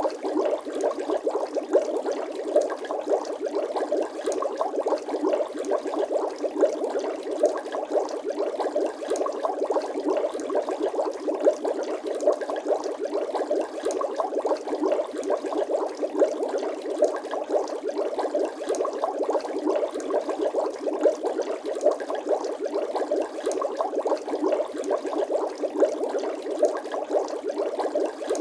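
Bubbling water sound effect: a dense, steady stream of small bubble pops.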